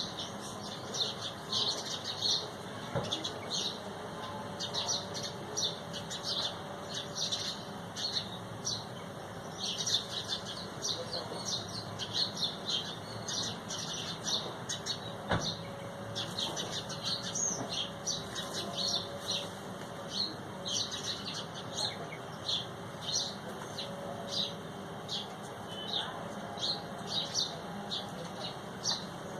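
Many small birds chirping at once: a dense, unbroken chatter of short, high chirps overlapping one another.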